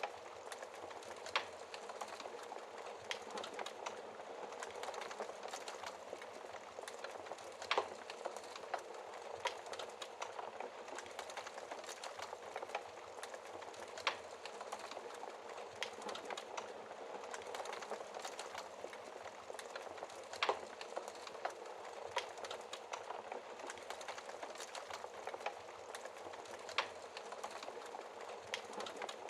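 Wood fire crackling in a fireplace: a steady hiss with many small crackles and a louder pop every few seconds.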